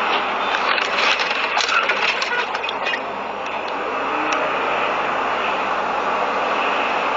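Steady road and engine noise of a moving vehicle, with a run of sharp clicks and rattles in the first three seconds and a few single ticks after.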